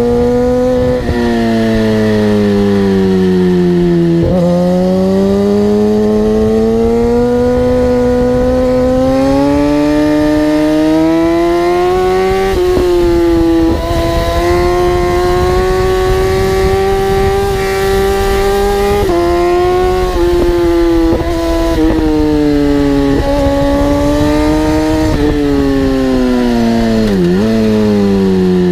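High-revving racing engine under hard acceleration, its pitch climbing and falling repeatedly with several abrupt jumps where it changes gear.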